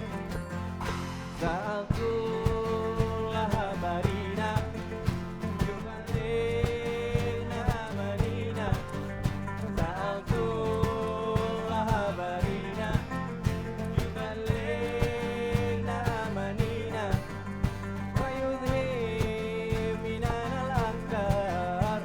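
Live band music: a sustained melody line with sliding pitch changes over a steady bass and a regular percussion beat.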